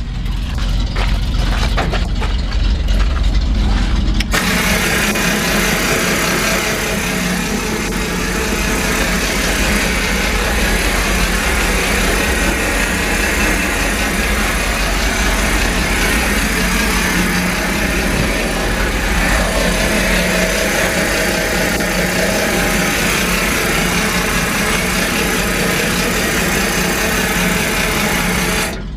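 A 1974 Chevrolet C65 grain truck's engine running steadily. About four seconds in the sound abruptly becomes brighter and fuller, and it cuts off suddenly near the end.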